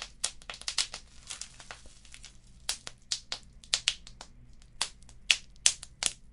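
Wood fire crackling: irregular sharp pops and snaps, several a second, over a faint low rumble, with a few louder pops in the second half.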